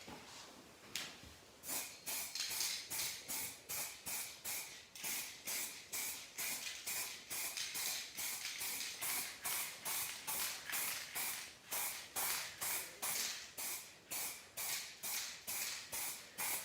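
Aerosol spray paint can sprayed in short, rapid puffs, about three a second, starting about a second and a half in, as paint is misted on in thin layers.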